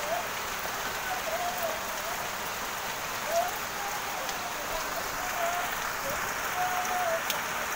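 Steady rain falling, an even hiss of rain, with a few sharp drip clicks.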